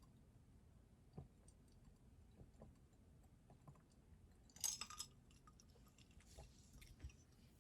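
Faint scattered clicks and taps over quiet room tone, with one short, louder crackling clatter about halfway through.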